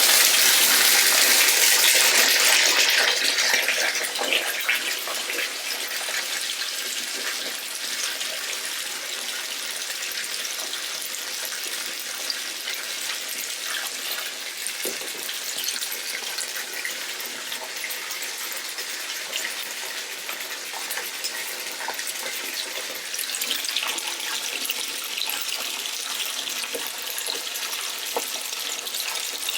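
Water jets spraying against a car in a car wash, a dense steady hiss that is loudest for the first three seconds and then settles lower.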